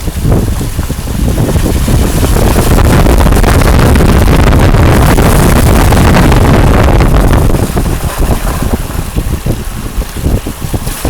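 Wind buffeting the microphone of a moving car, over the rumble of the car and its tyres on the road. The rush builds over the first couple of seconds, holds steady, then flutters and dips near the end.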